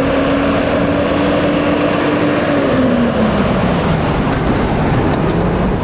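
Heavily loaded truck's diesel engine pulling forward up a steep grade, its engine note steady and then dropping in pitch about two and a half seconds in.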